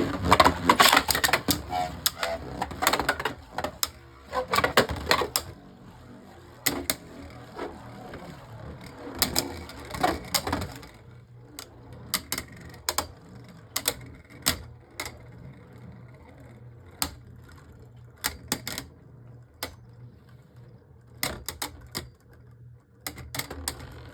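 Two Beyblade Burst spinning tops, Harmony Pegasus and Wizard Fafnir, in a plastic stadium, clashing. A dense run of clacks in the first few seconds gives way to single clacks every second or so as the tops slow.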